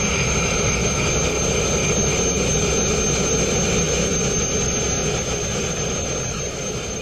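Sandblasting: compressed air and abrasive rushing out of a blast nozzle as a steady, loud jet-like hiss with a thin high whistle and the compressor's engine humming underneath, easing slightly near the end.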